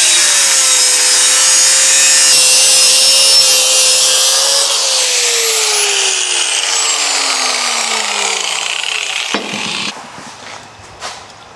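Electric cut-off tool cutting into a metal intake pipe, running steadily under load for about five seconds. After release its motor winds down with a falling pitch over several seconds, then a short clatter near the end.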